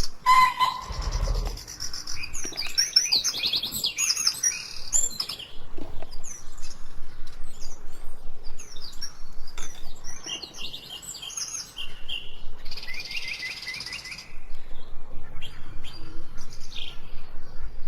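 Several birds chirping and singing, with quick trilled runs of notes and short calls overlapping. A brief low thud comes about a second in.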